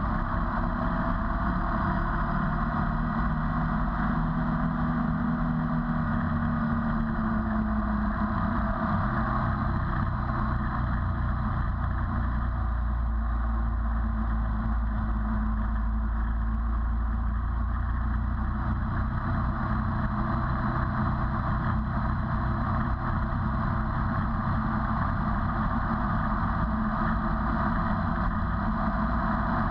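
Ducati 848's L-twin engine running steadily at cruising speed on the road, with wind rushing over the camera. The engine note shifts slightly several seconds in, then holds.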